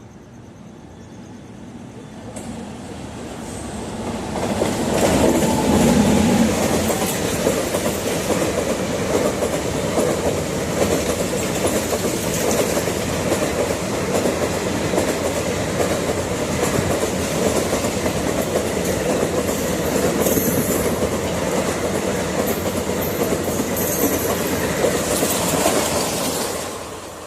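A train passing close by: the rumble builds over the first few seconds, then the cars clatter over the rail joints for about twenty seconds before the sound drops away near the end.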